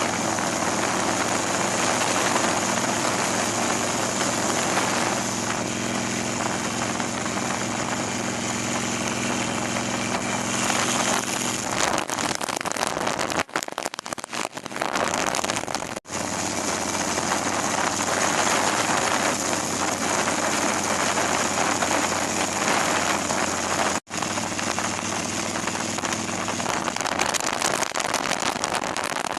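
Motorcycle engine running under heavy wind rush on the microphone while riding, cut off sharply a few times as the footage jumps.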